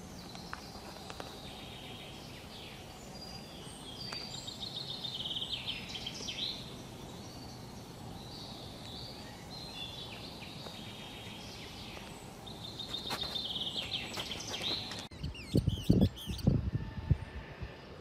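Birds chirping and giving fast trilled calls over a steady outdoor hiss. About fifteen seconds in the ambience changes abruptly to a run of low, uneven thumps, the loudest sounds here.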